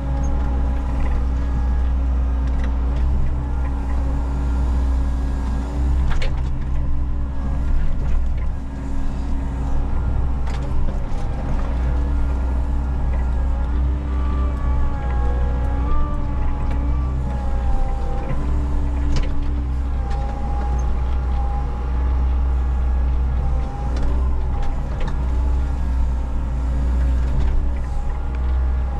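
Menzi Muck walking excavator running steadily under load, a deep engine hum with a hydraulic whine that shifts in pitch as it works, and a few sharp knocks.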